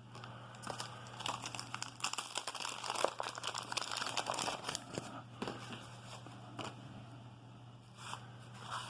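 Wax-paper baseball card pack wrapper crinkling and tearing as it is opened, a dense run of crackles for about five seconds, then fainter rustling as the cards are handled.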